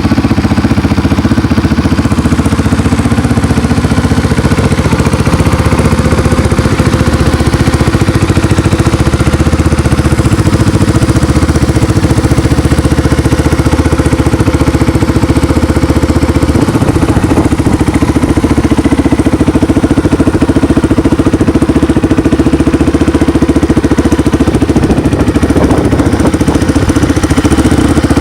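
Polaris Outlaw 500 quad's single-cylinder four-stroke engine, freshly rebuilt with new engine bearings, running loud and steady.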